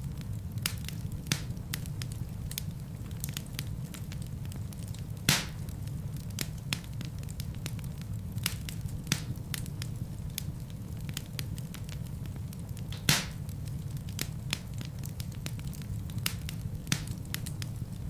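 Wood fire burning in a fireplace: a steady low rumble of flames with scattered crackles and snaps, two louder pops about five seconds in and near thirteen seconds.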